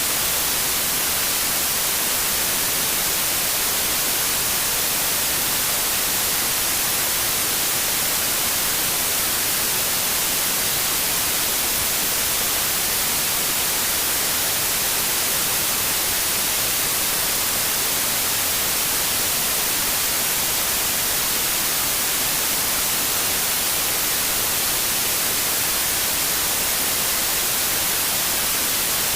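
Steady white noise: an even, unbroken hiss, strongest in the treble.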